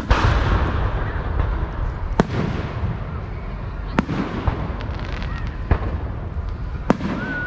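Fireworks going off: five sharp bangs one to two seconds apart over steady crackling, the first bang the loudest and followed by a burst of crackle.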